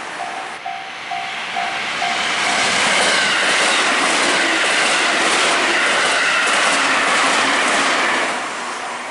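Level crossing warning bell dinging about twice a second, drowned out by an electric train passing with clatter of wheels on the rails from about two seconds in; the passing noise eases about eight seconds in.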